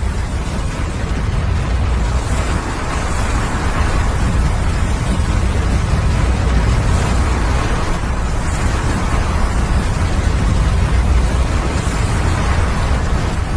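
A snow avalanche rumbling down a mountainside: a loud, continuous roar, deep and heavy, that swells a little about three to four seconds in.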